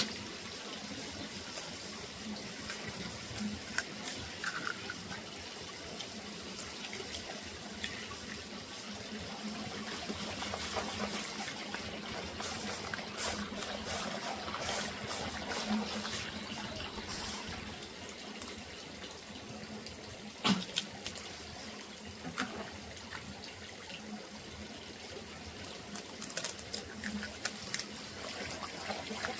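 Water running and splashing, with scattered clicks and knocks throughout and one sharper knock about two-thirds of the way through.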